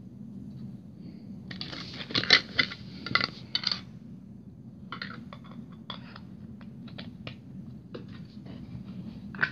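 Clatter and clicks of small hard objects being handled, with a burst of sharp knocks in the first half and lighter, scattered clicks after.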